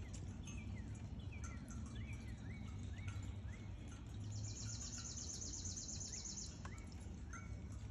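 Birds calling outdoors in spring: repeated short chirps and sliding notes, with a fast, high, even trill that lasts about two seconds midway. A steady low rumble runs underneath.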